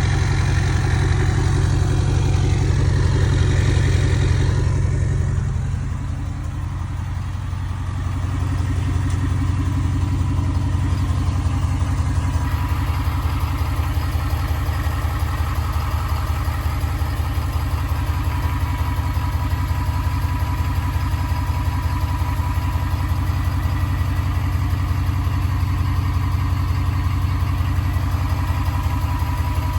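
2021 Ford F250's turbo-diesel V8 idling steadily through a straight-piped, deleted exhaust, a low even pulse; it goes briefly quieter about six seconds in, then settles back.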